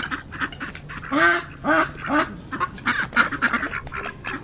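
A flock of ducks and geese calling close by: rapid overlapping quacks and rasping calls throughout, with three louder pitched honks about one to two and a half seconds in.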